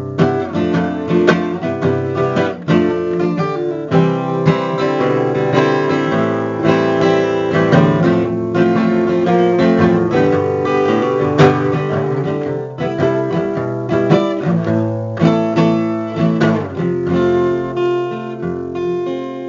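Instrumental music led by strummed acoustic guitar, with many strokes and chord changes.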